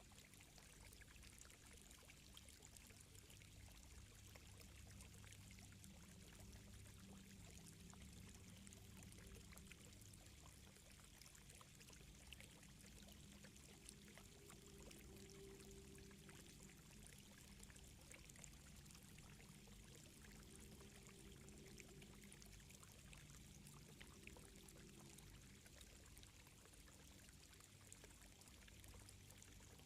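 Faint ambience of gently trickling, flowing water, steady throughout, over a soft low hum.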